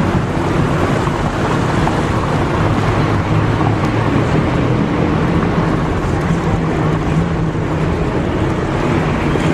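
A car engine running steadily at low speed, a continuous low drone under even road noise.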